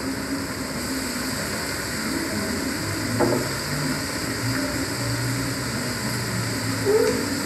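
Chopped vegetables frying in hot oil in a wok: a steady sizzle over a low hum.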